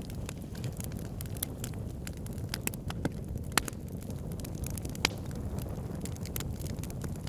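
Wood fire burning in a fireplace: a steady low rumble of flames with irregular crackles and sharper pops, the loudest about three and a half and five seconds in.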